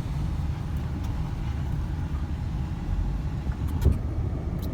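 Cabin noise of a 2005 Ford Explorer Sport Trac being driven: its 4.0-litre V6 and the tyres give a steady low rumble. A single sharp click comes a little under four seconds in.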